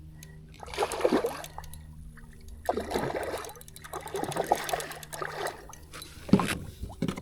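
A hooked redfish splashing and thrashing at the water's surface beside a kayak, in several separate bursts of splashes.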